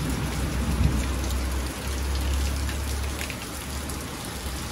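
Heavy rain pouring steadily, an even hiss of falling water with a low rumble underneath.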